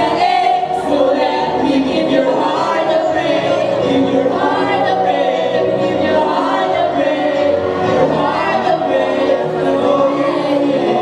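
Several voices singing a song together over backing music.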